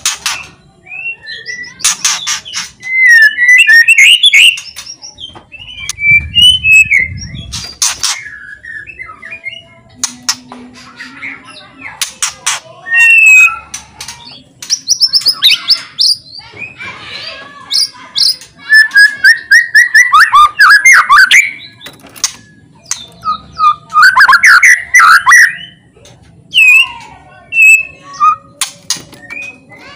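White-rumped shama (murai batu) singing loudly, with varied whistled phrases that sweep up and down in pitch, broken by bouts of sharp, rapid rattling clicks.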